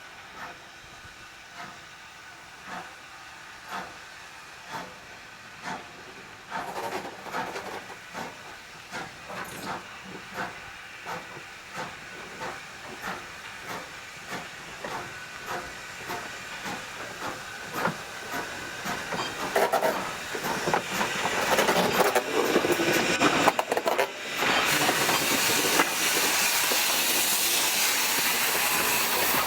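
Steam locomotive #90, a 2-10-0 Decapod, working a train toward the listener: its exhaust chuffs come about once a second, then quicken and grow steadily louder. Near the end a loud hiss of steam takes over as the engine draws close.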